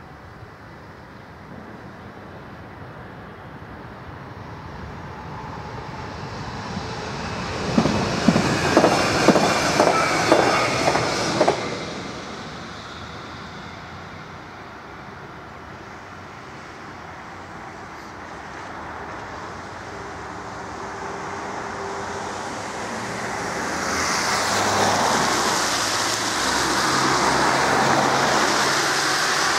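Regional passenger train passing a level crossing. The sound builds over several seconds, then a quick run of sharp clacks as the wheels cross rail joints lasts about four seconds before fading. Near the end, cars drive over the crossing with rising tyre noise.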